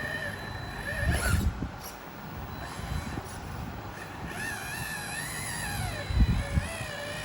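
Small electric motor of a radio-controlled car whining, its pitch wavering with the throttle. It cuts out a little after a second in and starts again around four seconds in, with a couple of low knocks.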